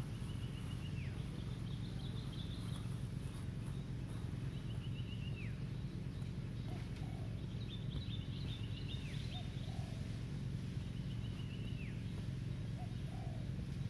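Birds singing: one repeats a short run of quick notes ending in a falling slur about every four seconds, while another chatters in higher notes between the phrases. A steady low rumble runs underneath.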